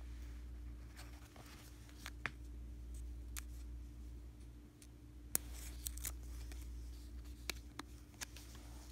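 Stickers and sticker sheets being handled, peeled and pressed down, giving scattered light crackles and sharp ticks, the sharpest about five seconds in, over a steady low hum.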